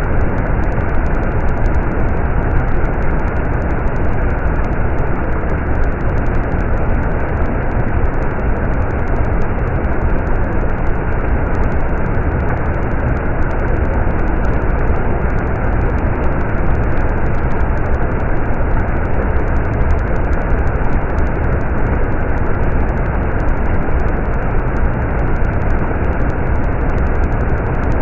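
Stream water running, a steady, unbroken rush with a strong low rumble and little high-pitched splashing.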